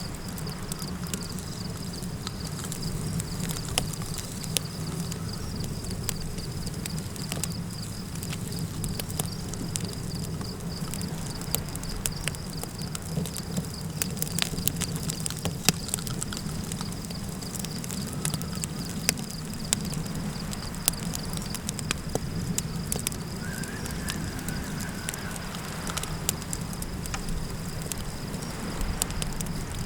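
Campfire crackling with irregular sharp pops over a steady low rumble of wind, with a constant high insect trill in the background. About three-quarters of the way through, a faint wavering call rises briefly above the bed.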